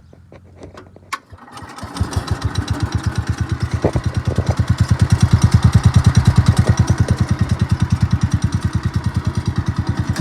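Cub Cadet 71 garden tractor's single-cylinder engine starting up, with a click about a second in and the engine catching suddenly at about two seconds, then running with a steady rapid pulse that grows a little louder.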